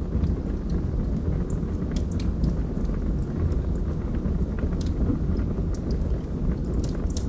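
Wood logs burning in a fireplace: a steady low rumble of the flames with scattered, irregular crackles and pops.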